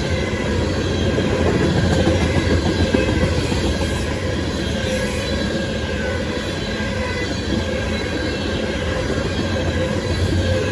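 Train cars rolling past on the rails: a steady, dense rumble with faint, steady wheel squeal tones above it.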